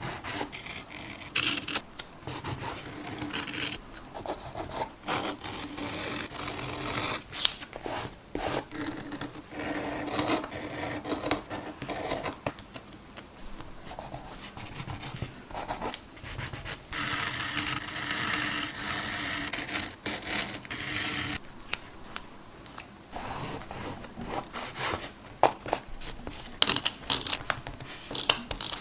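Close-up paper-crafting handling: tape and paper being rubbed, scratched and smoothed down by hand, with small ticks and taps throughout. A longer steady rasp comes about two-thirds through, and a few sharp ticks come near the end.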